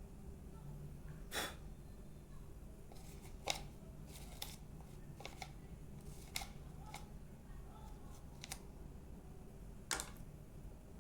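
Scattered sharp clicks and snips from small hand-tool work on a hair dryer's parts, eight or so spread out, the loudest about a second in and near the end.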